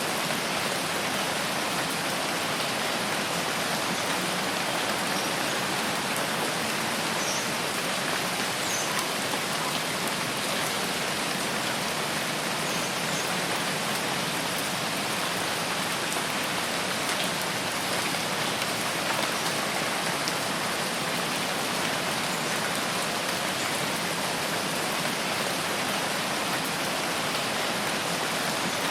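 Steady rainfall in a forest, an even unbroken hiss of rain on leaves and ground.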